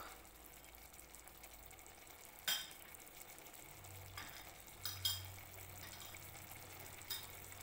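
Faint sizzling of chicken cooking in a yogurt and spice mixture in a pan, with a few light clinks of a steel spoon against a small glass bowl as salt is scooped out.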